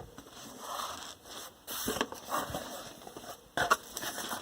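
Packaging and box contents being handled during unboxing: irregular rustling and scraping with a few sharp clicks.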